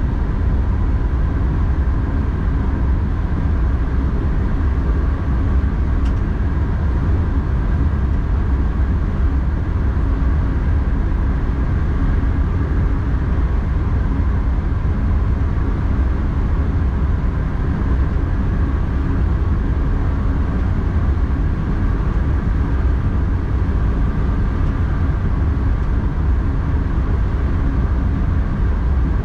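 X40 electric multiple unit running steadily at line speed, heard from the driver's cab: a loud, deep, even rumble with a faint steady hum above it. A faint click about six seconds in.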